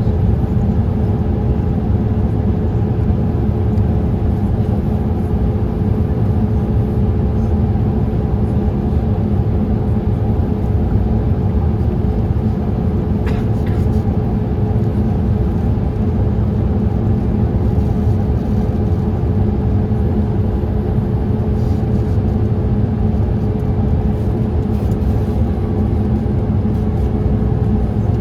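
Steady cabin noise inside a Boeing 787-8 airliner in flight: a deep, even rumble of engines and airflow with a constant hum running through it.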